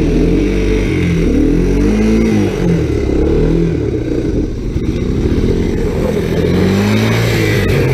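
Single-cylinder engine of a small Honda off-road machine running under throttle, its pitch rising and falling again and again as it revs up and eases off.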